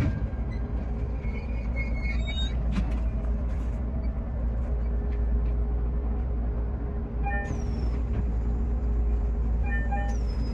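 Shinano Railway SR1 series electric train running along the line: a steady low rumble, with short high tones twice in the second half.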